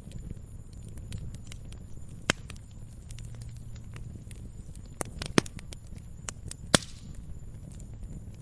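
Campfire burning, the wood crackling with scattered sharp pops over a low steady rumble. Three louder pops come about two, five and seven seconds in.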